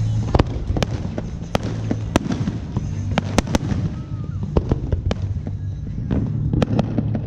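Fireworks going off: a string of sharp bangs and pops at irregular intervals, sometimes several in a second, over a steady low hum.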